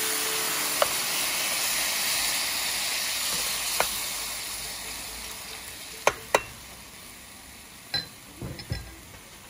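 Fish pieces sizzling in hot oil and liquid in a pan, the sizzle slowly fading. A metal spatula clinks against the pan several times, twice in quick succession about six seconds in.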